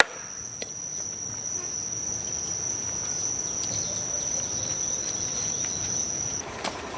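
An insect, cricket-like, trilling in one steady high-pitched tone that stops abruptly about six seconds in, over faint background noise.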